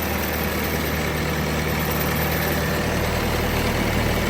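2017 Bobcat T650 skid steer's diesel engine idling steadily, running clean with no blow-by.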